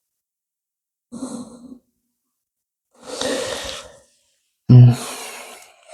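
A person breathing audibly close to the microphone: three separate breaths, the last, near the end, loud and voiced.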